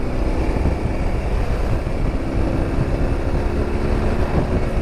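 BMW R1200GS flat-twin engine running at a steady cruise, with a dense rush of wind and road noise underneath.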